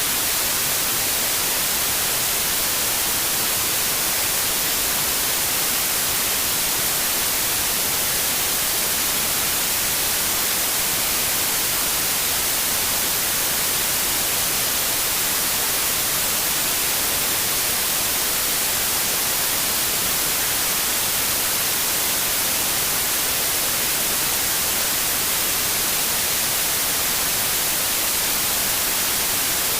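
White noise: a steady, even hiss without any change or event, strongest in the high frequencies.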